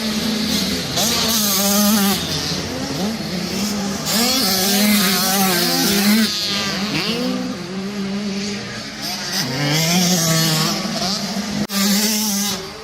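Several motocross bikes racing on a dirt track, their engines revving up and down in overlapping rising and falling whines. The loudness drops sharply for a moment near the end.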